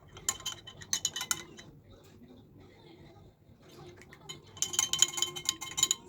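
Spoon stirring a drink in a glass, clinking rapidly against the sides with a ringing tone, in two spells: about a second near the start and more than a second near the end.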